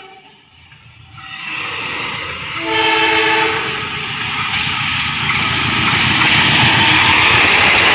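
A train approaching and passing, with rumble and wheel-on-rail noise that grows steadily louder. A short blast of the locomotive's horn comes about three seconds in.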